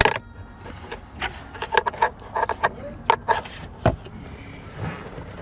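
Hard plastic trim and the filter housing clicking, knocking and rubbing as they are pushed and handled, with about a dozen short sharp clicks in a row.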